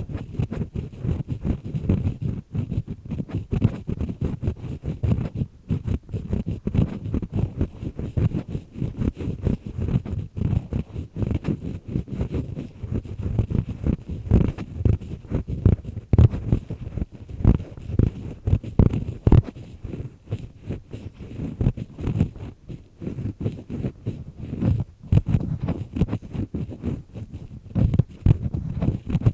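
An earpick scraping and grinding inside an ear canal, heard close up from inside the ear: a dense run of short, rough, crackling strokes, heavy in the low end, as flaky skin and wax are worked loose.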